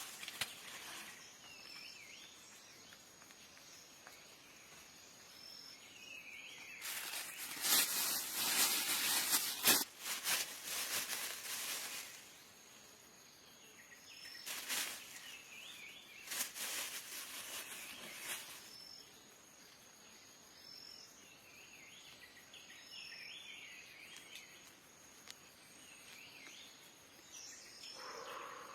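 Outdoor ambience: a steady high insect drone, with short bird chirps and calls scattered through. Several louder bursts of noise break in, the longest about seven to twelve seconds in, with two shorter ones soon after.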